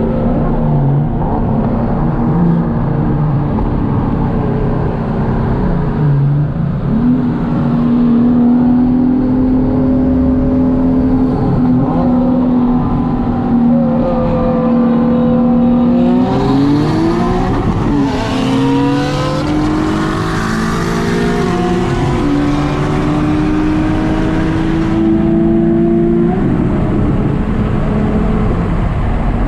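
Nissan 370Z's V6 engine, heard from inside the car during a roll race. It holds steady revs for several seconds, then goes to full throttle about halfway in. The revs climb with a gear change partway through, and the engine lets off near the end.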